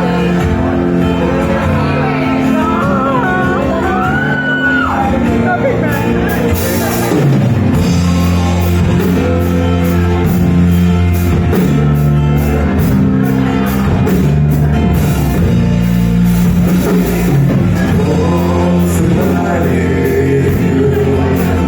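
Live rock band playing a slow song: guitars and bass holding chords under singing.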